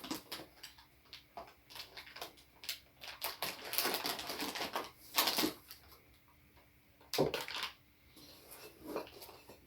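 Packing material being handled while a box is unpacked: irregular rustling, crinkling and light clicks as foam packing is pulled out, with a few louder crinkles near the middle.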